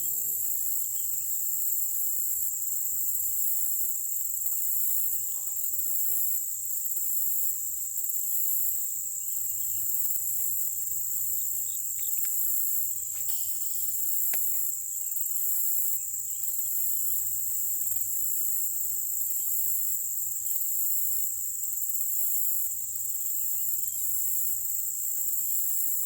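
Insects chirring steadily in a high-pitched, continuous drone with a regular pulsing above it, plus a few soft clicks midway.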